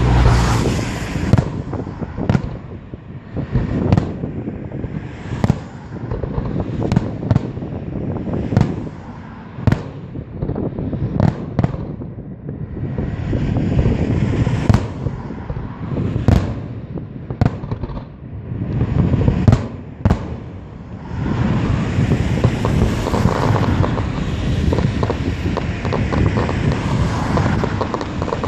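Aerial fireworks exploding: a string of sharp bangs, some close together, over a continuous rumble. From about two-thirds of the way through, the bursts merge into a dense crackling barrage.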